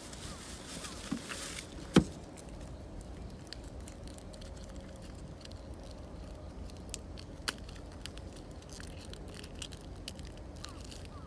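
Wood campfire crackling, with scattered small pops and one sharp, loud pop or knock about two seconds in.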